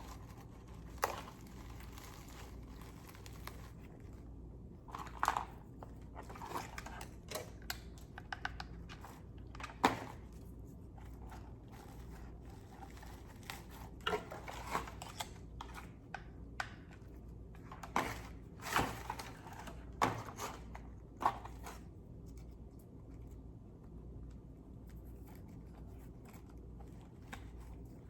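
Dry twigs and moss handled and pushed into a paper-bag nest base: scattered crackles, crunches and small snaps, in clusters with pauses between, and little after about 22 seconds in.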